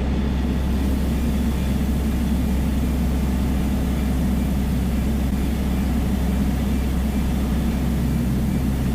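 Cockpit drone of a Piper Dakota's six-cylinder Lycoming O-540 engine and propeller in cruise on the downwind leg, a steady low hum with no change in pitch or level.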